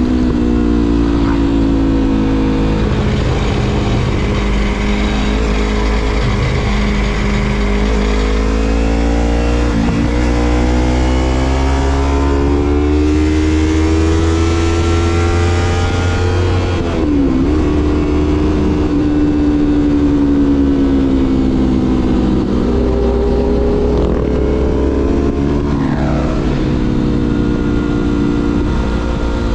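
Yamaha MT-25 parallel-twin motorcycle engine through a Shadux Viper Pro Race aftermarket exhaust while riding. The engine note rises and falls repeatedly, with quick drops in pitch about ten seconds in, about seventeen seconds in and again near twenty-six seconds.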